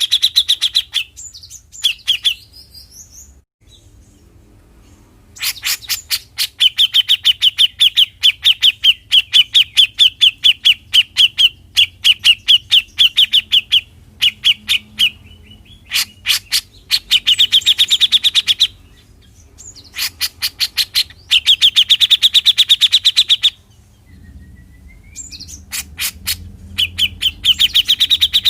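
Grey-cheeked bulbul (cucak jenggot) giving its rapid chattering 'besetan' call. It comes in bouts of fast, evenly repeated harsh notes, about six a second, each bout lasting a few seconds with short pauses between.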